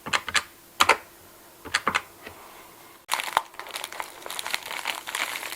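A few sharp, separate clicks, typical of cash register keys being pressed, then from about three seconds in a continuous crinkling of packaging.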